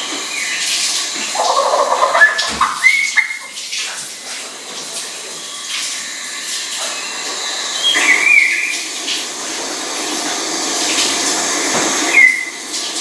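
Steady rushing, hiss-like noise with a few short bird calls over it, about three, each a brief bent whistle.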